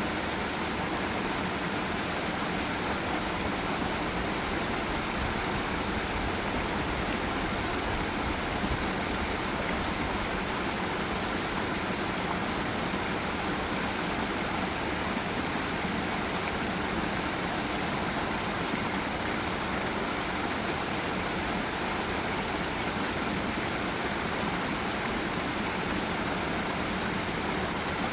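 Forest river and small waterfall: water rushing steadily, an even unbroken roar.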